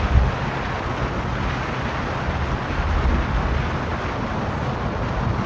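A car driving along: steady road and tyre noise with an uneven low rumble.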